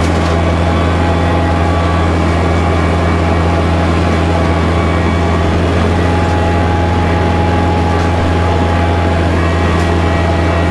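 Kubota tractor's diesel engine running steadily with a strong low hum.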